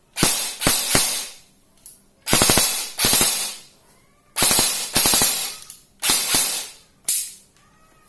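Electric M4 airsoft gun (AEG) firing a series of short automatic bursts, about ten in all, each a rapid run of sharp shots, grouped in twos and threes with brief pauses between.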